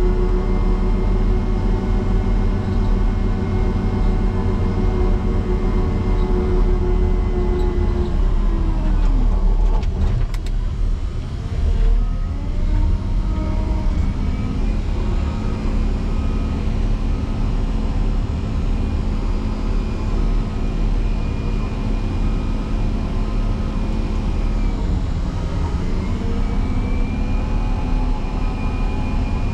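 A motor grader's diesel engine working hard under load. Twice its pitch sags as the engine lugs down, once about a third of the way in and again near the end, and each time it climbs back: the engine is straining as the blade pushes into deep, packed snow. After the first sag a regular beeping starts and keeps going.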